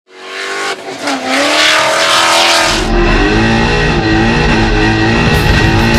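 Ford Mustang RTR's Coyote V8, through an X Force exhaust, revving hard with tyre squeal while drifting. About three seconds in the sound cuts abruptly to a steadier, deeper note.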